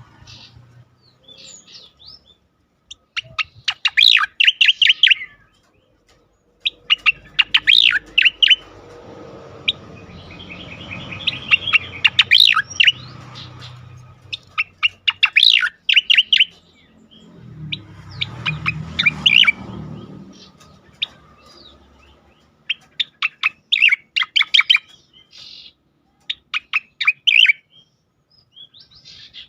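Striated grassbird (cica koreng) singing its 'ngejoss' song: about seven bursts of rapid, sharp chattering notes, each a second or two long, repeated every few seconds.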